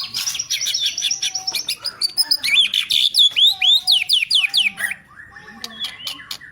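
White-rumped shama (murai batu) singing a fast, varied song of whistled trills and rapid pitch sweeps, loudest in the middle and turning to a quieter buzzy phrase near the end: the aggressive song of a bird ready to take on a rival.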